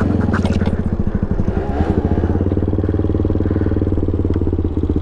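Small motorcycle engine running steadily at low revs, with a rapid, even pulse.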